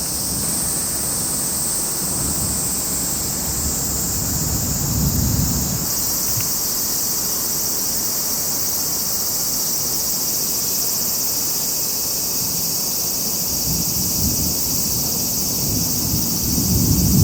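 A steady, high-pitched insect chorus drones on, with low wind rumbles on the microphone swelling about five seconds in and again near the end.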